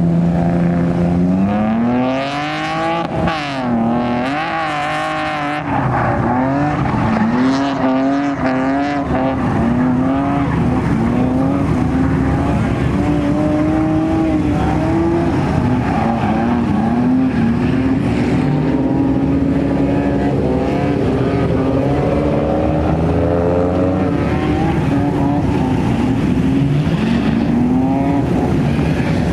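Drift car's engine revving hard under repeated throttle stabs, its pitch climbing and dropping about once a second, heard through wind on the microphone.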